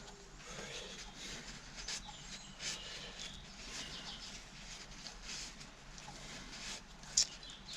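Faint, repeated chirping of small birds, with a few light clicks.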